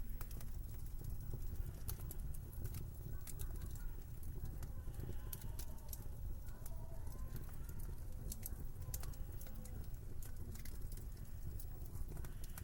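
Wood fire in a fireplace crackling, with frequent sharp, irregular pops, over a steady low rumble of winter wind.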